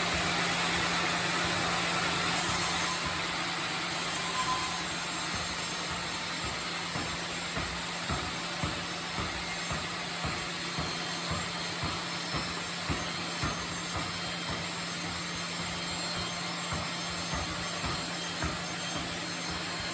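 Sawmill machinery running: a steady motor hum under a broad rushing noise, with irregular short knocks and clunks coming every second or so from about eight seconds in.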